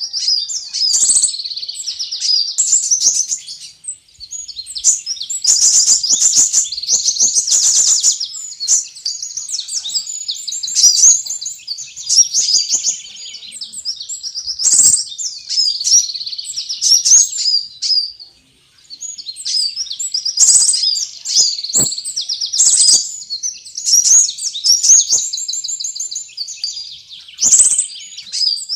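Sunbird lure call: fast, high-pitched chirps and trills, nearly continuous, with brief pauses about four seconds in and again around eighteen seconds in.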